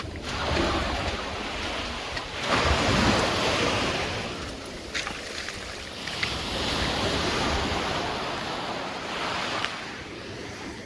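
Sea waves washing in on the shore, coming in three surges, the loudest about two and a half seconds in, with wind buffeting the microphone.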